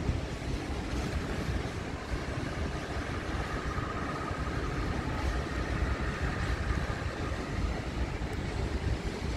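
A train running slowly at a distance: a steady low rumble, with a faint whine rising out of it midway.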